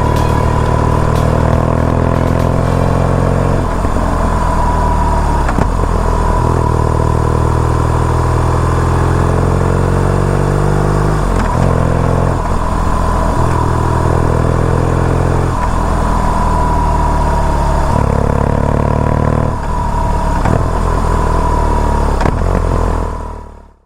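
BMW R nineT Urban G/S's boxer twin running under way, its pitch climbing and then dropping at several gear changes. A steady high whine runs over the engine, and the sound fades out right at the end.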